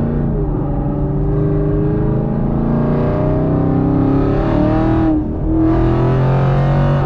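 Chevrolet Camaro SS 6.2-litre V8 through a Borla ATAK exhaust at wide-open throttle, heard from inside the cabin: the engine note climbs steadily, drops sharply about five seconds in as the throttle is lifted, then pulls again and dips once more near the end. The lift-offs are the driver backing off because the rear wheels are spinning.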